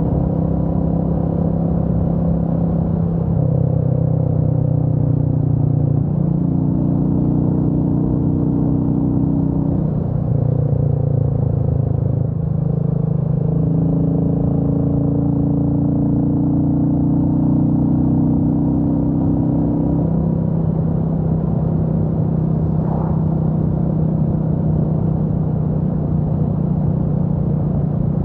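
Royal Enfield Meteor 350's single-cylinder engine running on the road, its note stepping up and down in pitch several times as the throttle changes.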